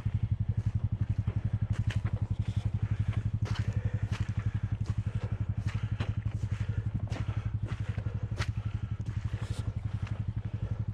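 An ATV engine idling steadily with a rapid, even throb, and a few sharp clicks and knocks over it.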